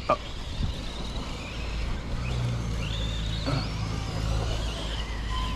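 Electric RC monster trucks racing, their brushless motors whining and rising and falling in pitch as they speed up and slow down, with a sharp knock right at the start.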